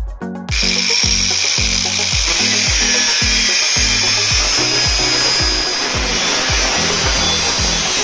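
A small high-speed electric power tool starts about half a second in and runs steadily with a high whine, over background music with a steady beat.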